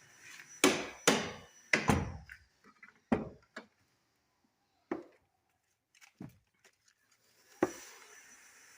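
Fiat Uno car door being worked and shut, a series of sharp clunks and knocks, the two loudest in the first two seconds and smaller ones spaced out after, with the door check strap's bolt removed so the check slides back inside the door.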